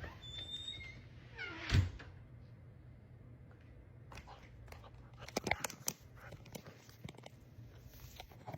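A pet's single short cry that falls steeply in pitch, then a few sharp knocks about five and a half seconds in.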